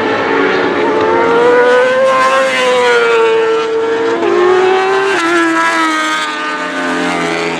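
Several racing superbike engines at high revs at once, their pitches rising and falling as the riders accelerate and shift.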